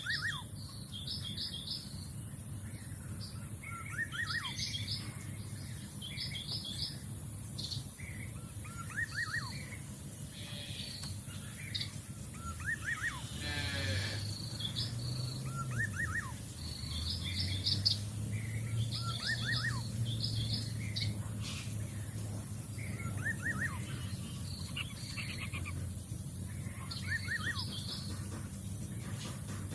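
Wild birds chirping outdoors: short bursts of rapid high chirps, and brief quick trills lower down, repeating every second or two. A low hum comes in about halfway through.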